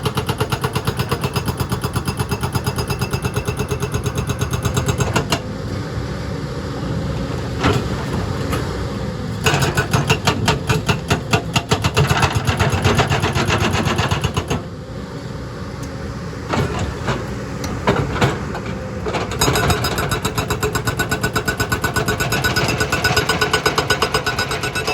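Excavator's diesel engine running under load with a steady rapid pulse, and a few sharp knocks of the machine working rock. The sound changes abruptly several times.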